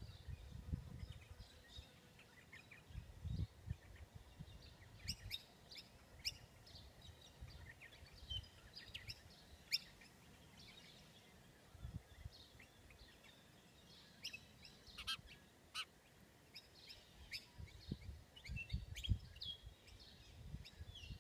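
Small wild birds calling around a feeding station in many short, overlapping chirps and sharp notes, with scattered low rumbles.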